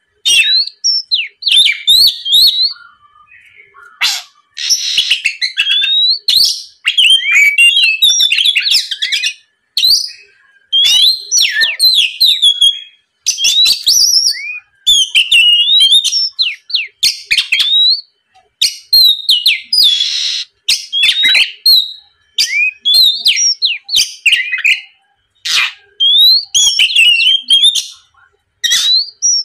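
Oriental magpie-robin (kacer) in full, loud song: phrase after phrase of clear whistles and rapid slurred and chattering notes, with short pauses between them. This is the song used as a lure to get rival males to answer.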